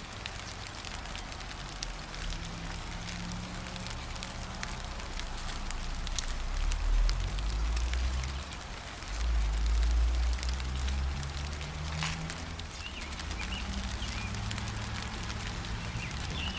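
Steady gentle rain with scattered drops pattering, under a low rumble that swells twice in the middle of the stretch and is the loudest part. A few faint bird chirps come in near the end.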